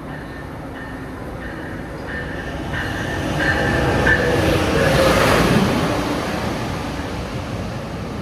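A train passing: rail and wheel noise builds to its loudest about five seconds in, then fades, with a steady high tone over it in the first half.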